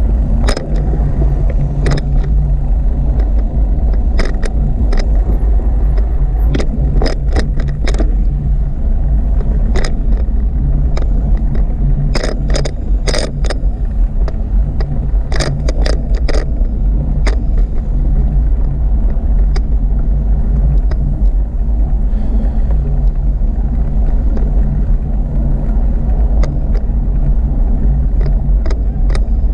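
Steady low rumble of wind and riding noise on a camera carried on a moving bicycle, with frequent sharp clicks and rattles, thickest in clusters through the middle.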